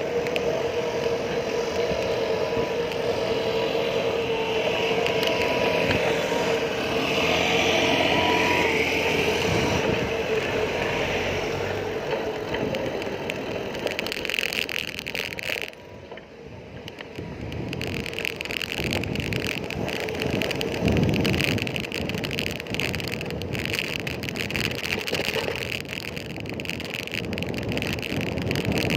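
Road traffic: motor vehicles running past, with a steady engine hum through roughly the first twelve seconds that then fades out, over continuous road noise.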